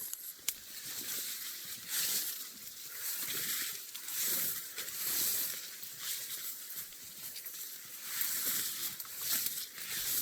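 Rustling and swishing of someone walking through dense marsh vegetation, a swell of noise with each step every second or two.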